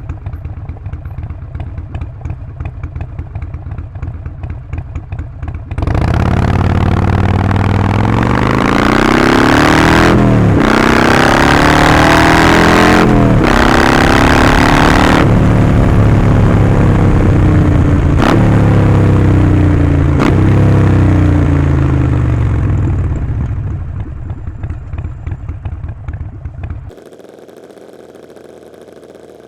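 Harley-Davidson Sportster Forty-Eight's 1200 cc V-twin through Vance & Hines slip-on exhausts: it runs at low revs, then about six seconds in it accelerates hard, its pitch climbing and dropping back at several gear changes. It then eases off and settles to a quiet low hum near the end.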